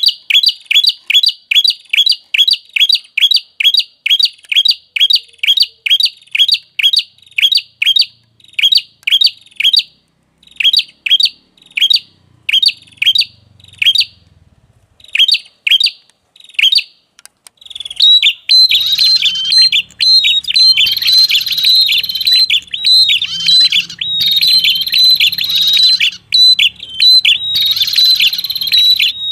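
Looped lure recording of a prenjak kepala merah, a small songbird. It starts with a sharp chirp repeated two to three times a second, which thins out with pauses. About 18 seconds in it turns into a dense, continuous chattering song with a steady high note.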